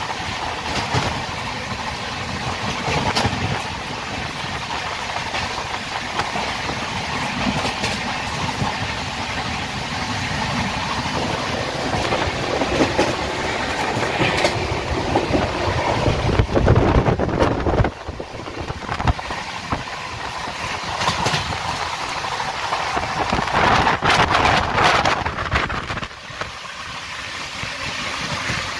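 Express passenger train running at speed, heard from on board: a continuous rumble with the clatter of wheels over the rails. It grows louder a little past halfway, then drops off suddenly.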